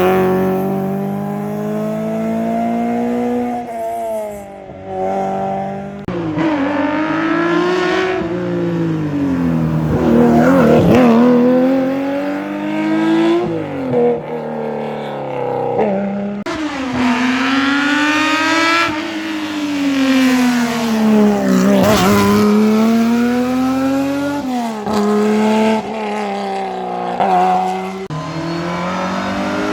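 Rally car engine revving hard on a special stage, its pitch climbing and dropping again and again with gear changes and lifts off the throttle.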